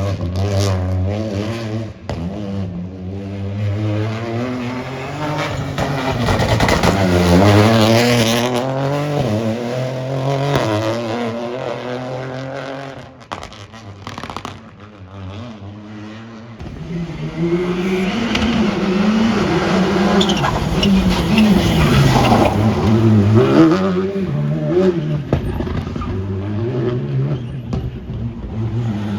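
Rally cars at competition pace, engines revving up and down through the gears as they pass one after another. One car runs through the first half, there is a brief lull about 13 seconds in, and a second car arrives about 16 seconds in.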